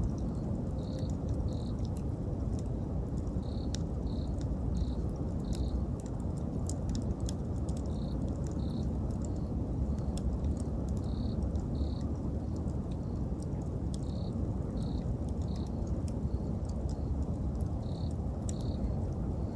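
Wood fire burning with a steady low rumble and scattered crackles and pops, while an insect chirps in short, high pulses that come in irregular groups throughout.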